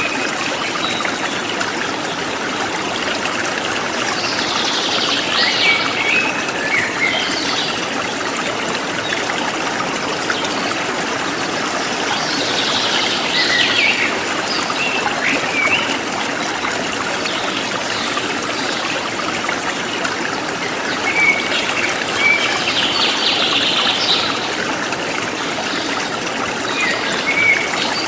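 A forest stream flowing steadily, with birds chirping in short clusters every several seconds over the water.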